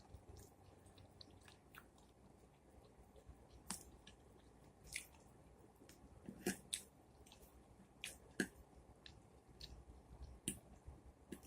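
Close-up chewing and mouth sounds of a person eating baked chicken and collard greens, faint, with scattered wet clicks and smacks.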